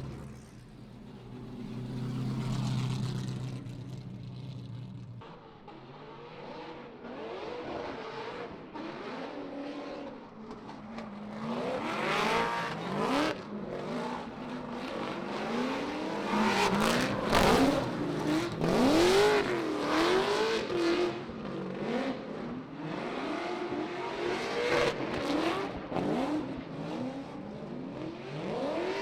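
Drift car engines revving up and down over and over, the pitch repeatedly climbing and dropping, with the sound growing louder toward the middle.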